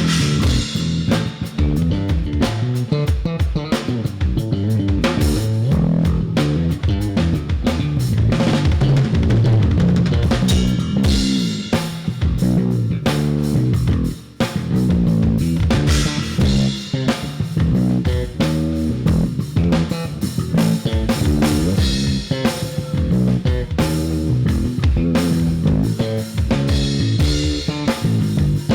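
Band music with a drum kit keeping a steady beat of kick and snare under guitar and bass, with no voice; the playing drops out briefly about halfway through.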